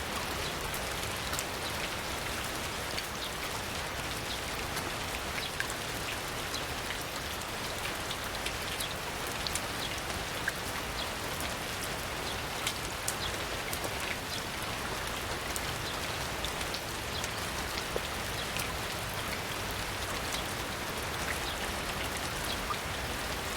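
Steady rain: an even hiss with many individual drops ticking sharply through it.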